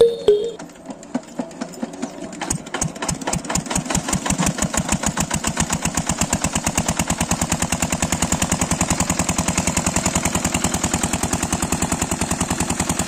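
A small machine running with a fast, even chugging beat. It starts with scattered knocks and speeds up into a steady rhythm within the first few seconds.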